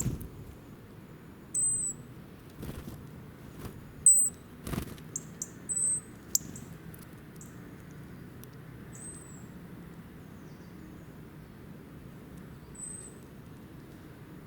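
Small bird chirping: short, very high single tweets, about eight bunched together in the first half and two more spaced out later, with a few soft clicks over a faint steady low hum.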